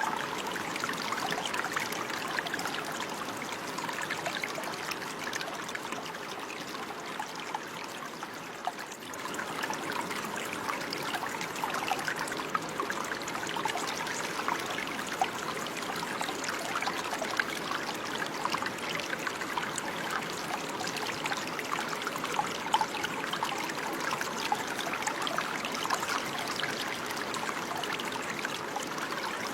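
Running water flowing and trickling steadily, with many small splashes, like a brook over stones.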